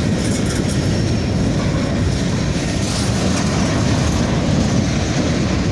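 Westbound freight grain train rolling past close by: a loud, steady rumble and clatter of steel wheels on the rails from the passing cars.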